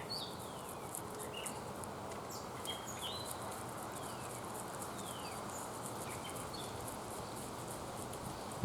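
Outdoor ambience: a steady background hiss with small wild birds chirping, scattered short high calls and a few falling whistled notes.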